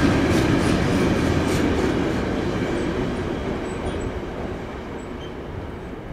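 A train rolling past and moving away, its rumble fading steadily, with a few wheel clicks over rail joints in the first second or two.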